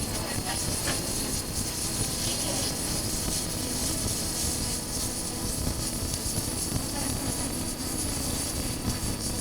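Steady wind buffeting over the microphone with the drone of a Honda CB400X's parallel-twin engine underneath, as the motorcycle is ridden.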